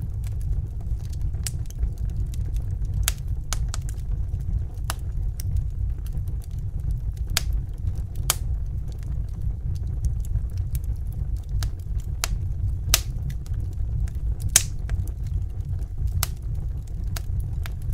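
Wood fire crackling in a fireplace: irregular sharp pops and snaps over a low, steady rumble of the burning fire, with a couple of louder pops in the second half.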